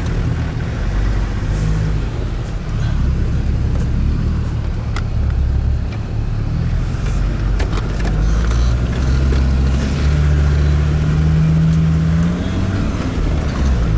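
An off-road 4x4's engine running steadily at low revs with a deep rumble, the pitch rising for a couple of seconds about ten seconds in and then falling back.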